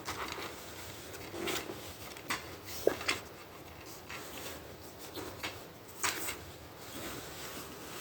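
Handling noises: scattered light clicks and rubbing, with sharper knocks about three seconds and six seconds in.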